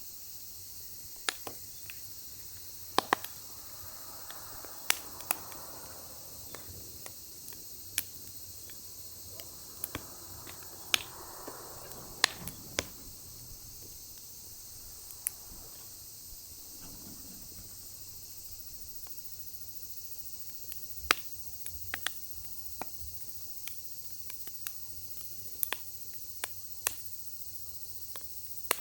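Firewood burning in a fire pit, crackling with irregular sharp pops over a steady high hiss, and a soft rush of flame now and then.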